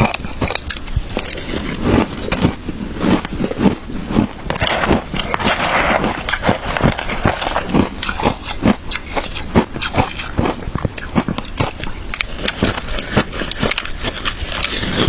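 Shaved ice being bitten and chewed close to the microphone: crisp crunches repeating about two to three times a second, with a denser crackling stretch in the middle.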